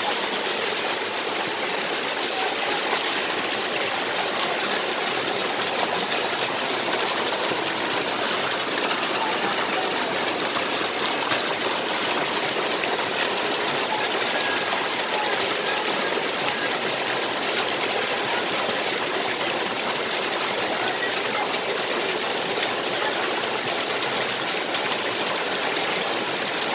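Stream and small waterfalls: water flowing and splashing steadily and evenly.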